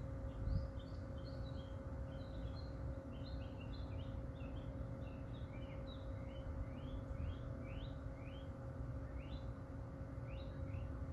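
Small birds chirping in a busy, irregular run of short, quick notes. Under them are a faint steady hum and a low rumble.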